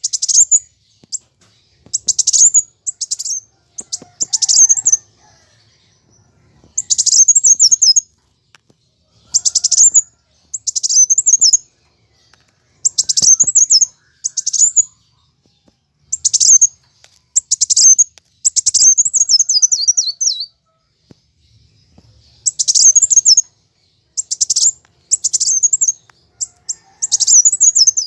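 Kolibri wulung sunbird singing hard in fighting mode: loud bursts of rapid, high-pitched twittering, each up to a couple of seconds long, repeated with short pauses between them.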